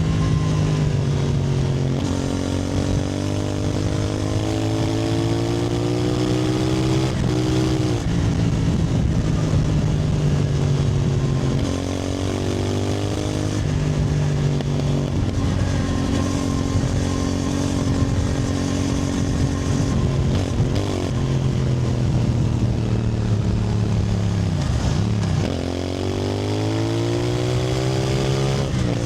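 CFMoto 450NK's parallel-twin engine under way, pulling up through the gears: its pitch climbs, then drops at each shift. Near the end it falls almost to idle and then climbs steeply again as the bike pulls away.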